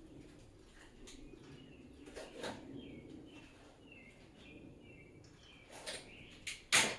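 Faint bird chirping, a string of short calls, with a few light clicks and taps; a sharper click comes near the end.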